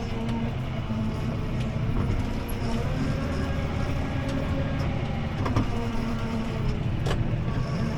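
CLAAS Arion 650 tractor's six-cylinder diesel engine running steadily under load while pulling a disc harrow, heard from inside the cab. A couple of sharp clicks cut through, about five and a half and seven seconds in.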